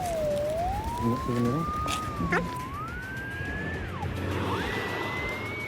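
A sewer-camera locator sounds a single whistling tone that glides slowly up and down in pitch as it tracks the camera head's signal. The pitch climbs overall, dips about four seconds in, then jumps higher and holds near its top.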